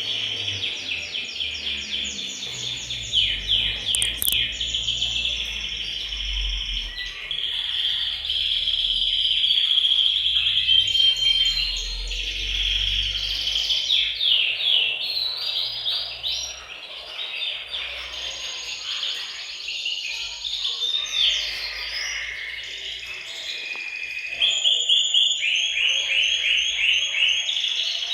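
Several male canaries singing together in fast, overlapping trills and rolls, with bursts of rapid repeated notes.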